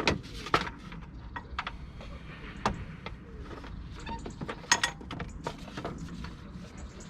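Scattered clicks, clinks and knocks of hand tools and parts being handled in a car's engine bay, with sharper clinks about half a second in, near three seconds in and a small cluster near five seconds in.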